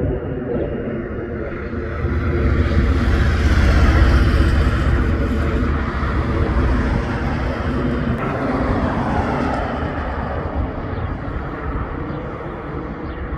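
Tractor engine running steadily as it passes, growing louder to a peak about four seconds in, then slowly fading.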